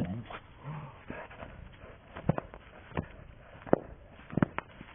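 A dog making a short low vocal sound about half a second in, followed by several sharp clicks or knocks in the second half.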